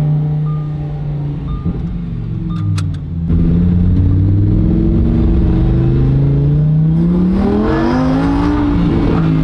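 Lamborghini Huracan Evo's naturally aspirated V10 running, its note rising as the revs climb over a couple of seconds near the end. A few short beeps sound in the first few seconds.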